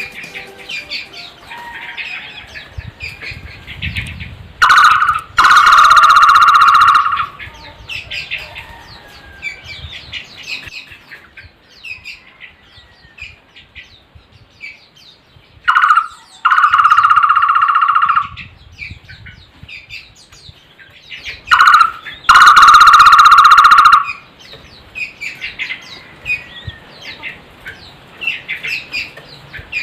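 A barbet (takur) calls three times, each time a short note followed by a loud, rapid trill lasting about one and a half seconds. Smaller birds chirp faintly in between.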